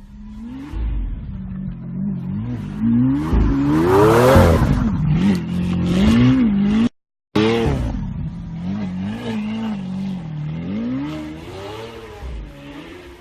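A car engine revving up and down repeatedly, its pitch rising and falling every second or two. A brief dead silence about halfway through breaks it before the revving resumes.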